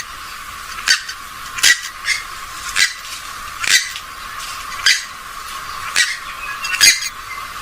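Recorded calls of a rail-family waterbird (swamphen or moorhen): short, sharp, high calls repeated roughly once a second, about nine in all.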